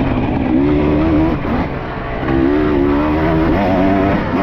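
Enduro dirt bike engine revving under throttle, its pitch rising and falling repeatedly, with a short let-off about a second and a half in.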